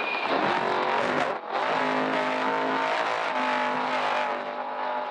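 Trophy truck engine running hard under racing load, heard from on board over rough ground. The engine note dips briefly about a second and a half in, then holds steady.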